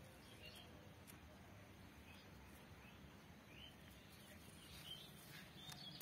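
Faint, scattered bird chirps, a few short calls spread out with more near the end, over a low steady outdoor background; otherwise near silence.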